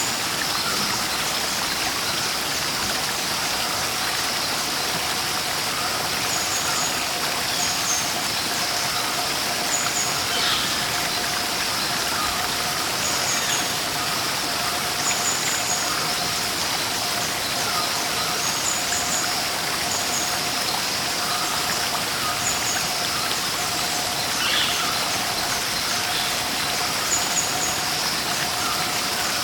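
Steady rush of falling water from a waterfall, with small birds giving short high chirps every second or two.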